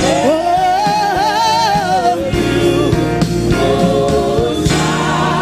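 Live gospel worship music: a singer holds a long note with vibrato over the band for about two seconds, then the band plays on with sustained chords and drum beats.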